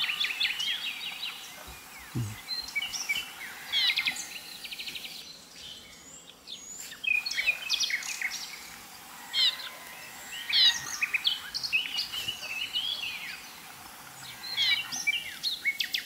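Forest birds calling: bursts of quick high chirps and trills every few seconds, over a faint steady background hiss.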